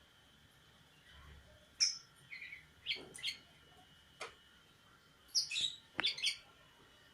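Sooty-headed bulbul (kutilang) calling in short bursts of quick high chirps with pauses between them. The densest, loudest burst comes about two-thirds of the way through.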